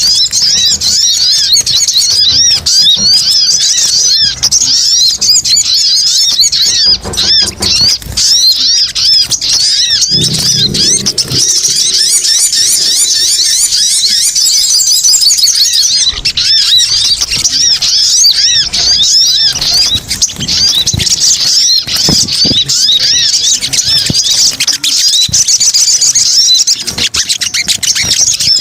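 Bird-lure recording of a male sogon's calls: a dense, unbroken run of high-pitched chirps, each a quick rising-and-falling sweep, many overlapping.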